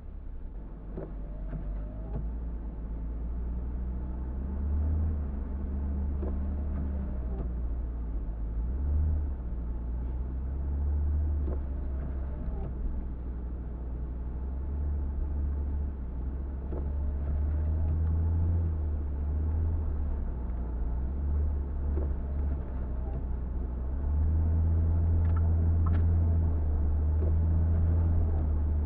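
A car running down the road: steady low engine and road rumble that swells and eases, a little louder near the end.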